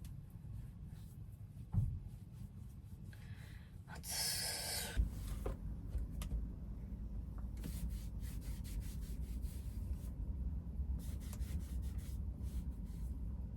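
Rubbing and rustling handling sounds with a single thump about two seconds in, over a low rumble that grows louder about five seconds in.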